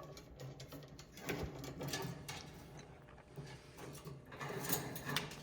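Golden conure's claws and beak faintly clicking and scratching as it moves about the parrot passage, with a short high bird call near the end.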